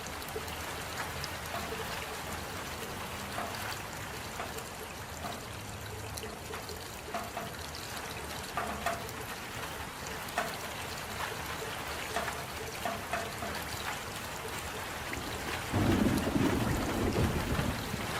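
Steady rain with scattered individual drops ticking. A louder, low rumble of thunder comes in near the end.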